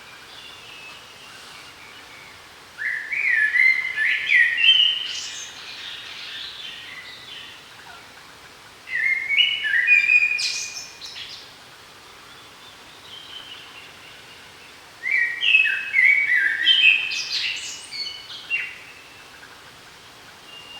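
A songbird singing: three phrases about six seconds apart, each a quick run of high chirping notes, with faint calls in between.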